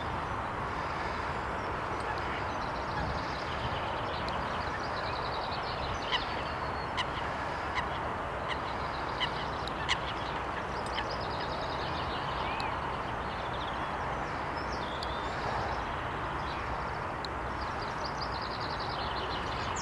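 Waterbirds calling on the water: a handful of short, sharp calls between about six and ten seconds in, with high bird twittering throughout, over a steady rushing noise.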